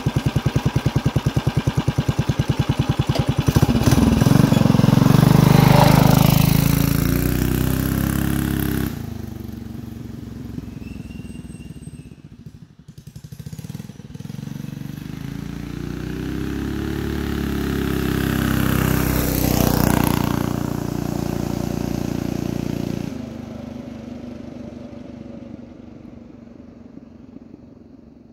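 Motovox MBX10 mini bike's small single-cylinder engine on a flyby. It ticks over, then opens up and runs loud past the microphone. It fades into the distance, then comes back up and passes again. About 23 s in the throttle is cut and the engine dies away into the distance.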